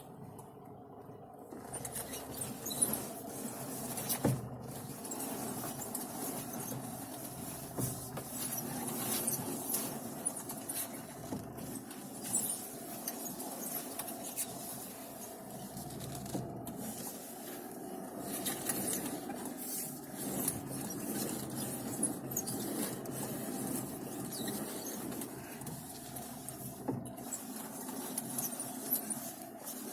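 Steering wheel of a 2009 Renault Logan being turned back and forth, with continuous creaking and squeaking from plastic parts rubbing against each other around the column, plus scattered clicks. It starts about a second and a half in. The squeak persists even though the plastics and the steering column were greased with copper grease.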